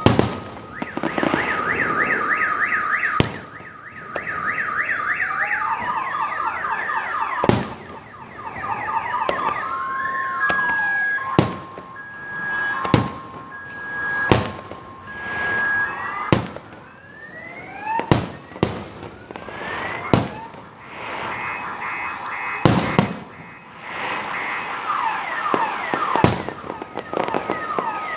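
Sharp fireworks bangs going off every second or few, while several car alarms sound at once, their rapid warbles, rising sweeps and steady beeps overlapping.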